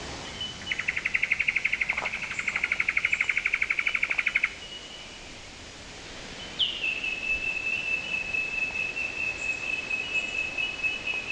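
Cicadas calling: a high, rapid pulsing trill of about ten pulses a second lasting nearly four seconds. After a short lull, another starts with a brief downward swoop and holds a long, steady high buzz.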